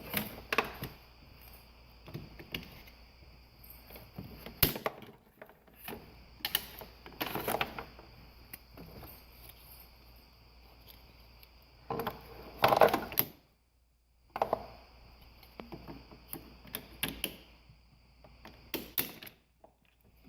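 Jump starter cable clamps being handled and clipped onto a car battery terminal and ground: scattered clicks, clunks and rustling, with a few louder knocks.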